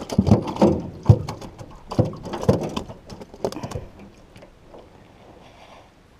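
A rapid, irregular series of close knocks, thumps and rustles, loud for about four seconds and then dying away to a faint hiss.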